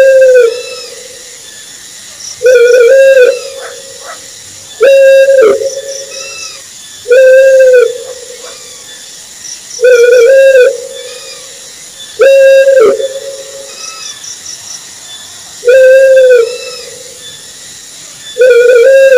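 An owl calling over and over: a single hoot, steady in pitch and under a second long, some ending in a quick downward drop, repeated about every two and a half seconds, eight times.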